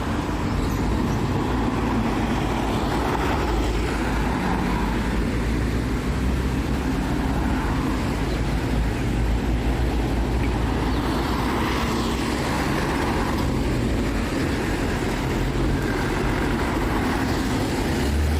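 Steady low rumble of a road vehicle's engine with road noise, holding an even level throughout.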